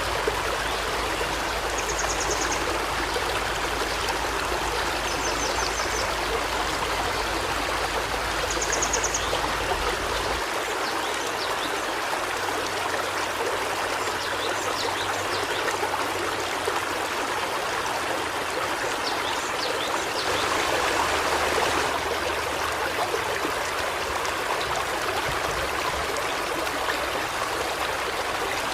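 River water flowing steadily. A bird gives three short, high trills in the first ten seconds, and the water surges slightly louder for a moment after about twenty seconds.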